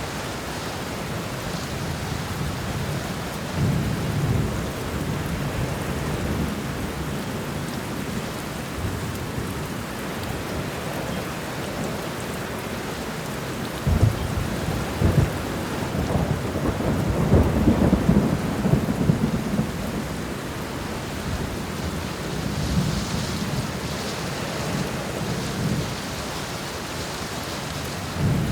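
Steady rain with thunder rumbling. About halfway through, two sharp cracks are followed by a long rolling rumble of several seconds, the loudest thunder here; lighter rumbles come early on and near the end.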